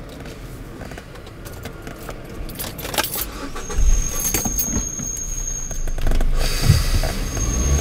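Car keys jangling and small clicks in the cabin, then the car's engine starts about four seconds in and keeps running, with a steady high whine over it.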